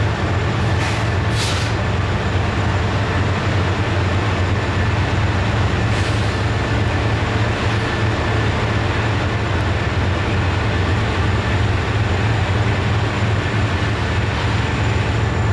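Freight train running unseen behind trees: a steady low rumble under an even wash of rolling noise.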